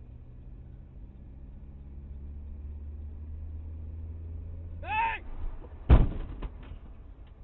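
Steady low engine drone heard from inside a car. About five seconds in a person gives a short cry, and a second later comes a single loud thump, followed by a few lighter knocks.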